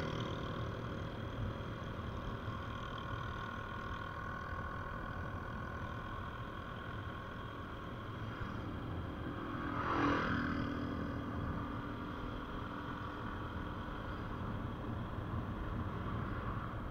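Steady road and engine noise of a vehicle on the move, with a brief louder swell about ten seconds in.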